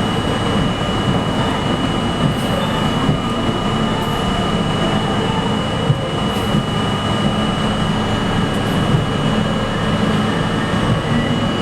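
New York City subway train running, a steady rumble with a constant high-pitched whine and occasional faint clicks.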